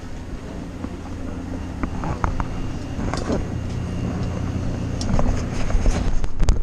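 Car engine running with a steady low hum, with scattered clicks and knocks, getting louder in the last second or so.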